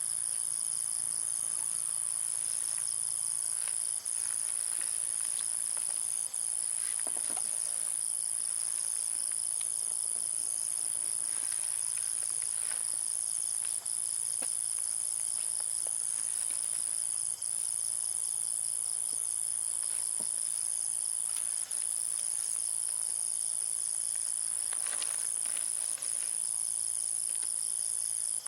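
Steady, shrill chorus of insects: one constant high tone with a faster pulsing layer under it. A few faint clicks and taps sound now and then.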